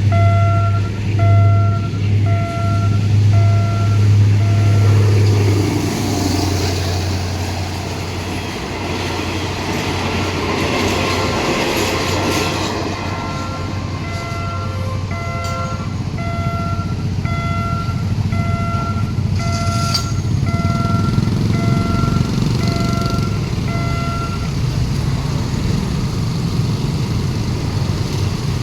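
Alsthom diesel-electric locomotive passing with its engine running, followed by the rumble of the carriages rolling over the track. Over it a level-crossing warning alarm beeps evenly, about one and a half beeps a second, breaking off briefly a few seconds in and stopping near the end.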